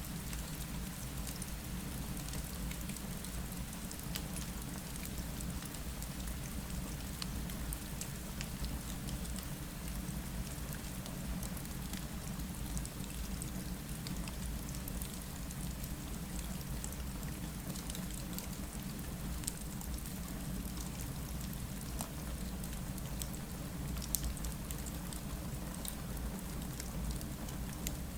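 Steady rain against a window, with scattered small ticks and crackles from a gently crackling fireplace, over a constant low rumble.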